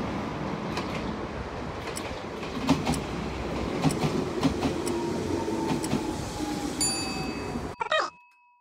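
Nishitetsu 600 series electric train passing on the tracks, a steady rumble with wheels clicking over rail joints and a faint, slowly falling squeal. About seven seconds in a ringing tone sounds, and then the sound cuts to near silence.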